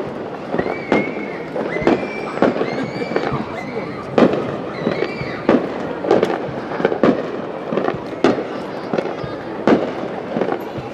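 Aerial firework shells bursting in a rapid, irregular series of sharp bangs, roughly one every half second to second, during a fireworks display.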